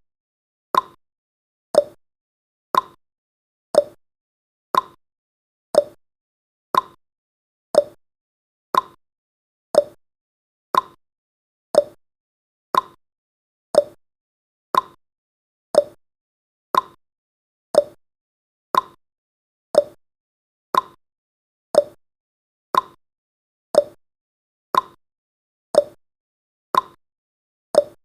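Clock-style ticking sound effect of a countdown timer: one sharp tick about every second, evenly spaced.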